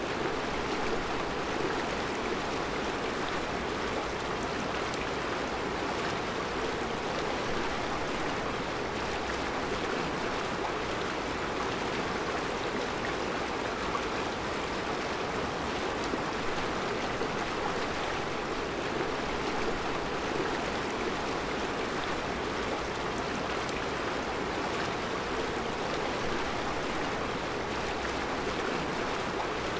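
Mountain river flowing over round rocks in a rocky bed: a steady, even rushing and gurgling of water.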